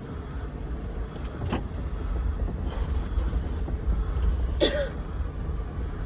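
Vehicle engine running with a steady low rumble, broken by two brief squeaks, one about a second and a half in and a louder one near the end.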